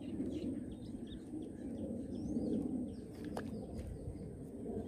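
Small birds chirping faintly over a low outdoor murmur, with one sharp click a little after three seconds in.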